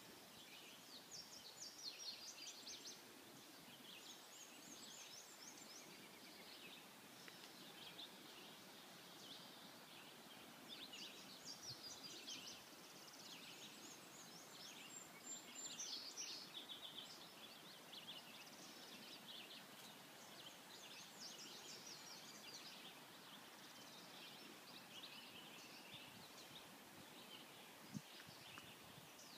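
Faint songbirds chirping and trilling again and again over a quiet outdoor hiss.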